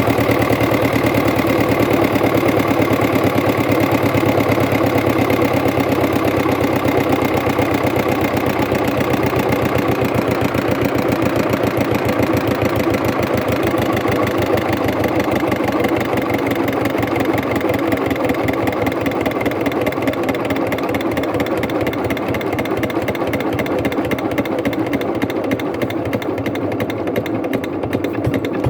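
Hatz diesel engine running fast and steady with a rapid, even firing beat, growing gradually quieter over the last several seconds.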